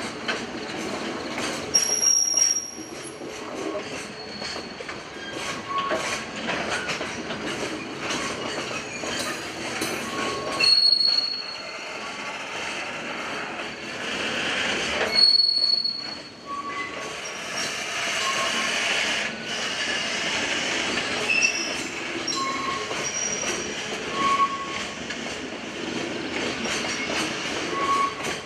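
A freight train's container wagons rolling past as the train pulls away from a stop. There is a steady wheel-on-rail rumble, with regular clicks over rail joints and many short, high-pitched squeals from the wheels.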